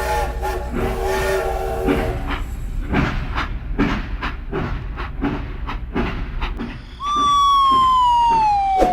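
Train running with a steady low rumble and regular clacks of wheels over rail joints. A held multi-note horn chord fades out about two seconds in, and about seven seconds in a loud whistle starts and slides steadily down in pitch.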